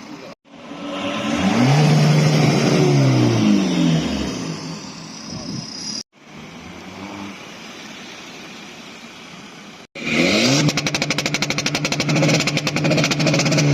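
Car engines revving and accelerating past in three short clips, the pitch climbing then dropping as each car goes by. The last clip is the loudest, with a fast rattle of exhaust pulses.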